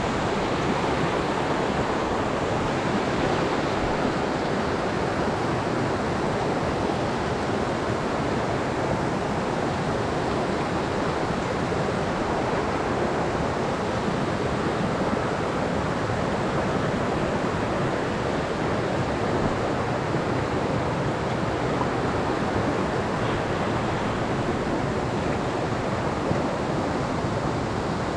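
Mountain stream rushing: a steady, even roar of flowing water.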